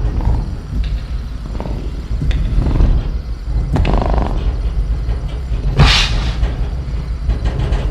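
Sound-design velociraptor in a cage: a deep rumbling growl under sharp metal knocks and cage rattles in the first few seconds, then a short, harsh, noisy snarl about six seconds in.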